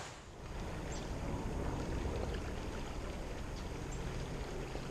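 Steady rush of a fast-flowing creek running high after weeks of rain, with a few faint high ticks.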